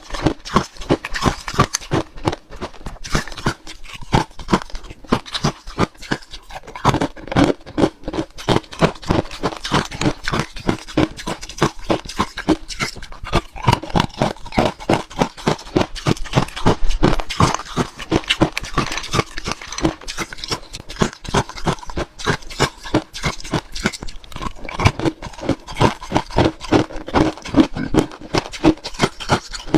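Close-miked chewing of frozen matcha ice: rapid, continuous crunching with several sharp cracks a second.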